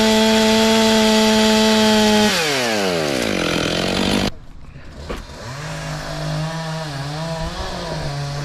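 Two-stroke chainsaw running at high revs with a steady whine; about two seconds in the throttle is released and the pitch falls away. After an abrupt break, a lower, wavering engine note runs on.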